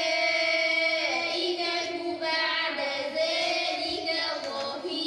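Children's voices reciting a Quranic verse together in a melodic chant, holding long drawn-out notes with short breaths between phrases.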